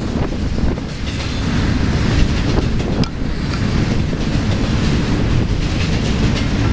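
Union Pacific intermodal freight train rolling past, its steel wheels clicking over the rail joints under a steady rumble, with a sharp click about three seconds in.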